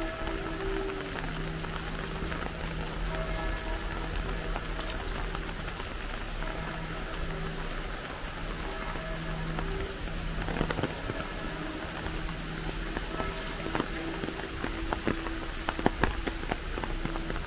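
Steady rain falling, a dense patter of drops with a few louder taps now and then, loudest about sixteen seconds in. Faint music with held notes plays underneath.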